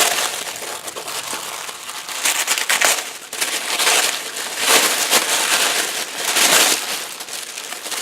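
Packaging crinkling and rustling as craft supplies are handled, in several bursts.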